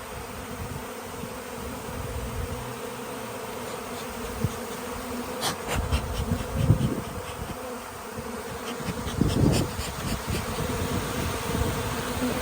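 A mass of honeybees buzzing in a steady hum: a colony stirred up by being cut out of a wall. A few brief knocks come between about five and ten seconds in.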